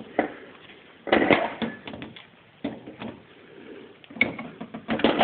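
Wrench and metal handling knocks and clicks while loosening the shipping cover plate on a new automotive AC compressor to let out its shipping pressure, with a louder short burst about a second in.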